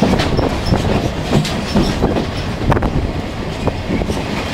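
TORO-Q sightseeing train running along the track, wheels clattering and clicking irregularly over the rails.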